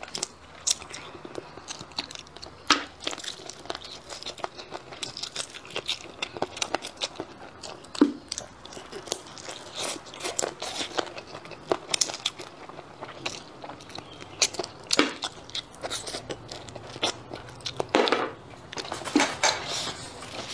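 Close-miked chewing of spicy chicken feet: wet clicks and crackles of the mouth working on the skin, with a few louder snaps of biting.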